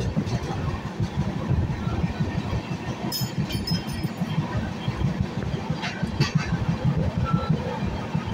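Running noise of an Indian Railways passenger train heard from inside a coach: a steady low rumble of wheels on the rails, with a few sharp clicks about three seconds in and again around six seconds.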